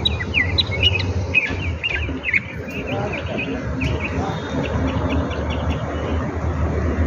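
Small songbird singing: a rapid run of short chirps and quick sweeping notes, busiest in the first couple of seconds, then softer, evenly repeated chirps.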